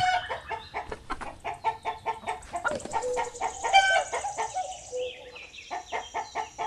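Rooster clucking repeatedly in short calls, with one louder call about four seconds in.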